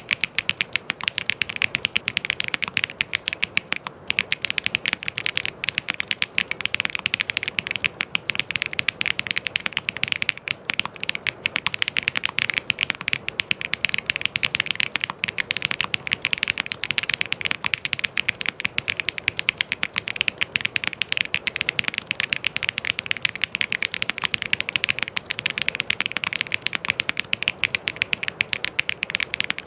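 Fast, continuous typing on a mechanical keyboard: a dense stream of key clicks and clacks with no pauses.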